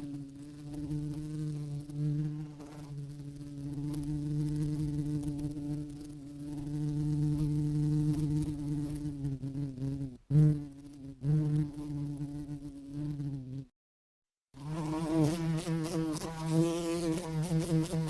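A flying insect buzzing steadily with its wings, a low even drone with a break near the end before a second buzz starts.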